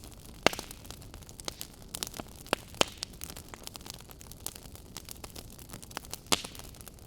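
Wood fire burning in a fireplace, crackling with irregular sharp pops over a steady low hiss. The loudest pops come about half a second in, near three seconds, and just after six seconds.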